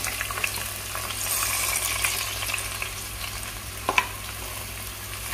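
Onions sizzling in hot oil and ghee with green chillies as they are sautéed, with a sharp clink of the spoon against the pan about four seconds in.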